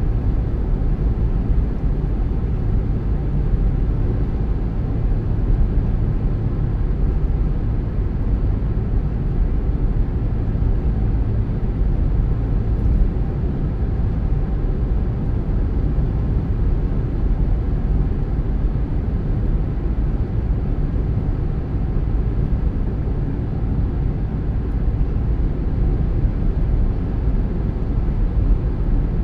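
Car driving steadily at road speed: a constant low rumble of tyres and engine that does not change.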